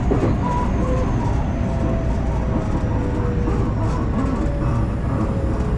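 Electric commuter train running along the line, heard from inside the carriage: a steady rumble of wheels on rail, with a faint traction-motor whine drifting slowly down in pitch.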